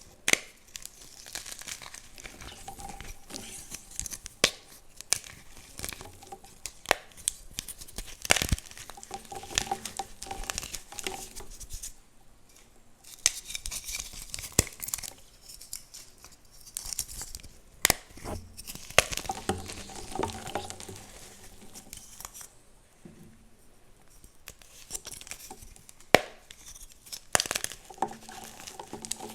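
Dyed gym chalk blocks being crushed and crumbled, a dense crunching and crackling with frequent sharp snaps. It eases off in two short lulls, about twelve seconds in and again past twenty seconds.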